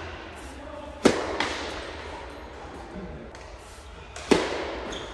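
Tennis rally: a ball struck hard by a racket twice, about three seconds apart, each hit a sharp pop, with fainter knocks of bounces or distant shots between.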